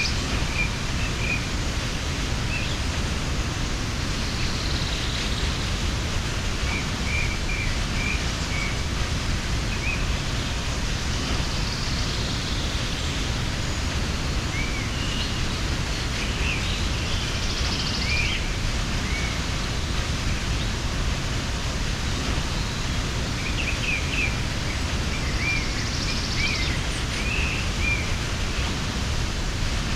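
Steady rush of a mountain waterfall, with short, high bird chirps scattered over it in small clusters, most around 7–9 s, 16–18 s and 24–27 s in.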